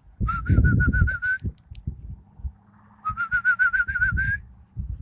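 Two trilled whistles, each about a second long and about two seconds apart: a quickly wavering tone, about eight wavers a second, that rises slightly at the end of each.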